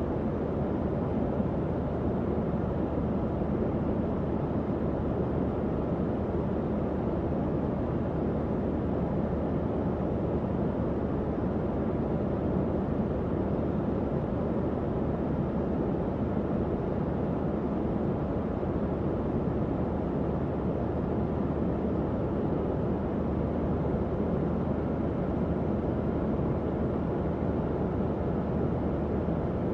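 Tower fan running steadily: an even rush of air with a faint low motor hum beneath it.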